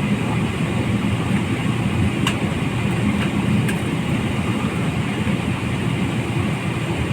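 Steady engine rumble of a jet airliner heard from inside the passenger cabin as the plane gets ready to take off, with a couple of faint rattles or clicks.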